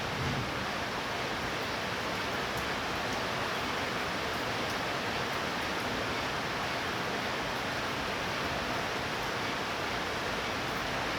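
Heavy rain from a thunderstorm pouring steadily, a continuous even hiss, with a brief low thump just after the start.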